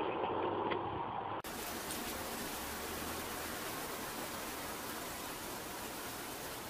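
Steady, even hiss of background noise that starts abruptly about a second and a half in, after a short stretch of fainter, muffled noise.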